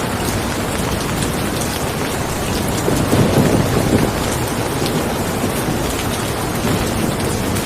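Steady rain falling, with a low rumble of thunder swelling about three seconds in and fading after about a second.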